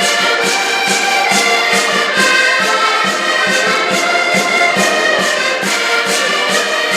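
Live traditional Portuguese folk music led by accordion, with sustained chords and melody over a steady percussion beat.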